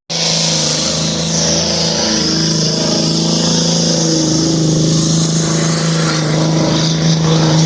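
A car engine held at steady high revs for several seconds, with a loud hiss over it.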